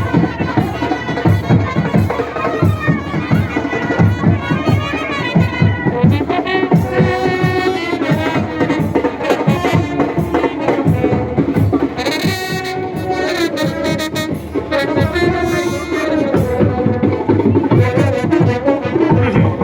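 Indian band baja brass band playing a melody on trumpets and other horns over a steady drum beat, brightening briefly about twelve seconds in.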